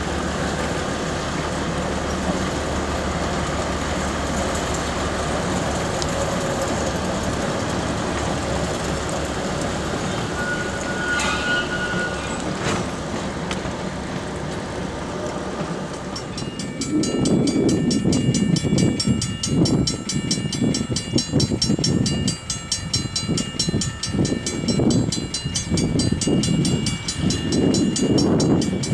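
A train running, a steady rumble that turns abruptly into a louder, uneven rumble about sixteen seconds in.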